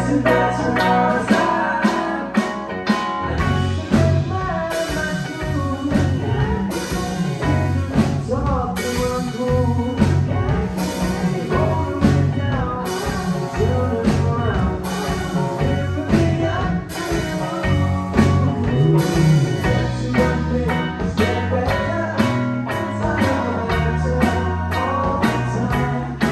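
Live band playing a blues-rock tune: guitar over a stepping bass line with steady drum hits.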